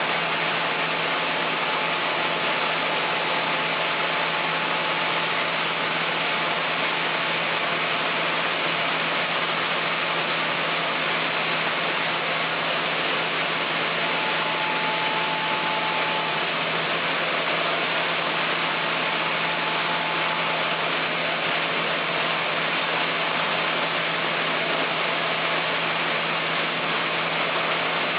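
Sawmill machinery running steadily, an even mechanical noise with a faint steady whine.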